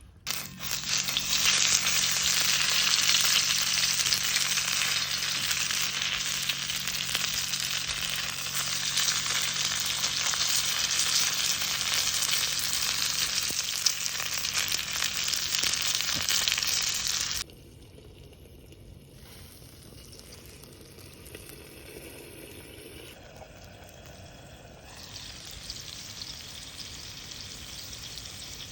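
Meat frying in a hot pan, with loud, steady sizzling. The sizzling drops off abruptly about 17 seconds in to a quieter sizzle, which grows louder again near the end.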